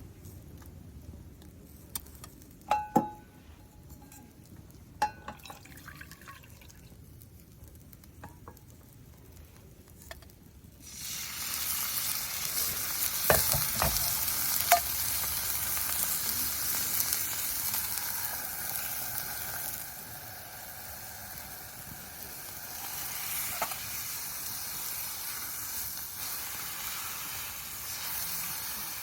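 A few light clicks and knocks, then about a third of the way in food starts sizzling in a hot pan and keeps frying steadily, easing off a little later on.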